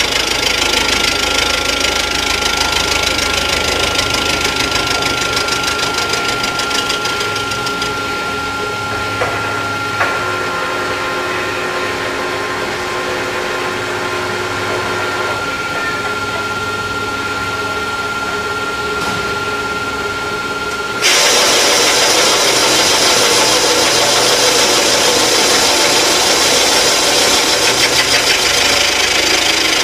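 Rottler F90Y CNC machining center running as it machines an engine block, with a steady whine; about two-thirds of the way through the sound suddenly becomes louder and hissier and stays so.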